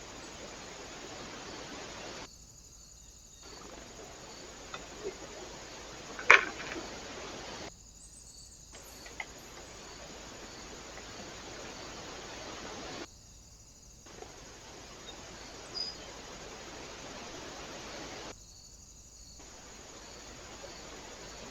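Steady outdoor hiss picked up by a trail camera's microphone, dropping briefly to near silence about every five seconds where one clip ends and the next begins. One sharp, loud click comes about six seconds in, with a few faint ticks elsewhere.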